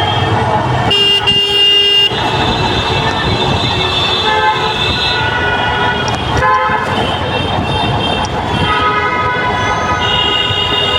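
Vehicle horns honking almost without a break in jammed road traffic, several sounding over one another at different pitches, over the general noise of the traffic.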